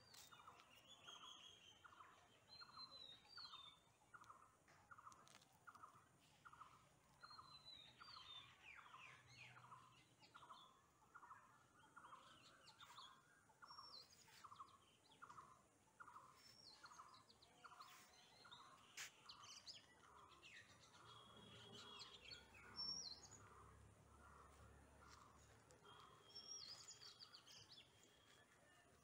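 Faint birdsong: one bird repeats a short, even note about one and a half times a second, while other birds chirp and whistle higher now and then.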